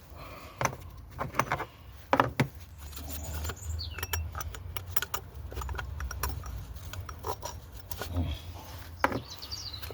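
Scattered clicks, taps and knocks of hand tools and bolts being worked loose on an engine, over a steady low hum. A bird chirps briefly about four seconds in.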